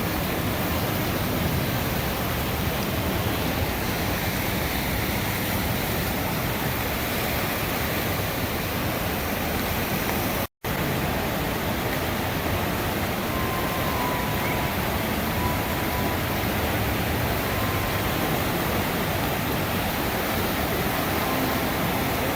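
The Little Pigeon River in flood, swollen by hours of rain: a steady, heavy rush of fast water. It cuts out for a split second about halfway through.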